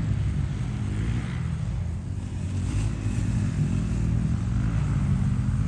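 KTM SX-E5 electric dirt bike being ridden around a small dirt track, its motor pitch rising and falling with the throttle over a steady low rumble.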